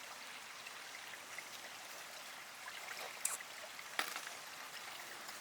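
Faint steady rush of running water from a stream, with two light clicks about three and four seconds in.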